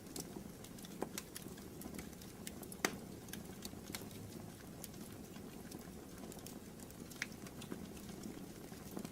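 Wood fire burning in a fireplace, crackling with frequent small irregular pops over a steady low rumble of the flames; the sharpest pop comes about three seconds in.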